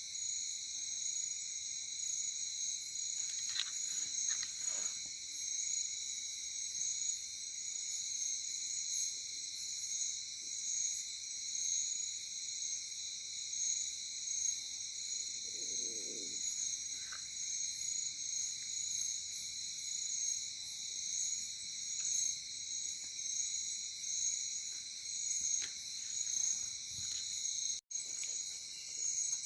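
Night chorus of crickets and other insects trilling steadily in several layered pitches, the highest layer pulsing in a regular beat. A brief low call sounds about halfway through, and the sound cuts out for an instant near the end.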